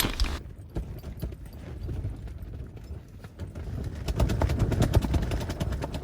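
Irregular clicks and knocks of tools and gear being handled and rummaged through, someone searching for a wrench.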